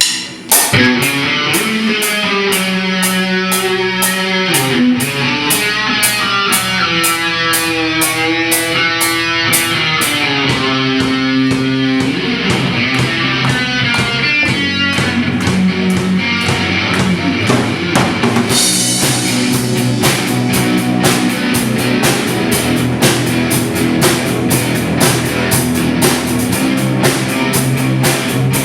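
Live rock band playing an instrumental passage: electric guitar lines over a steady drum-kit beat, the full band coming in harder about two thirds of the way through.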